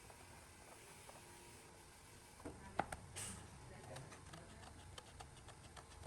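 Faint room noise, then a few light clicks and taps about halfway through, a short hiss, and a run of faint quick ticks.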